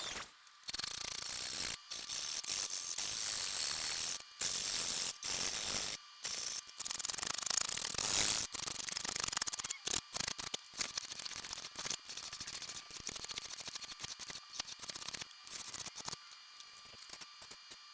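Antique hand-cranked coffee grinder being turned, its gear and burr mechanism clicking and grating in a rapid, continuous ratchet-like run. There are several abrupt short breaks, and it is quieter near the end.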